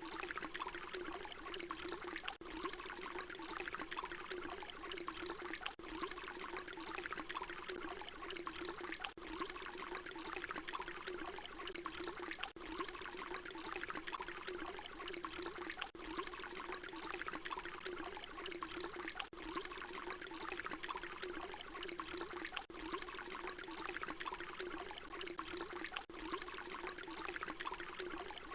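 Water pouring in a steady, continuous stream, with a brief dip in the sound about every three and a half seconds.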